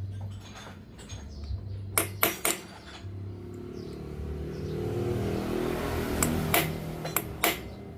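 Metal tools clinking and knocking in a motorcycle repair shop: three sharp clinks about two seconds in and four more near the end, with a pitched hum swelling in between.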